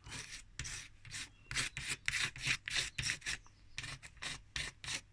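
Scrubbing strokes on a burnt microwave mica waveguide cover being cleaned with cleaning fluid, about three or four quick rubs a second.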